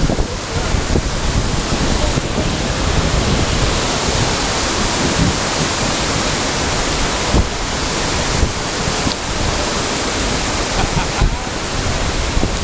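Steady rushing of a waterfall, with wind buffeting the microphone in low, irregular gusts.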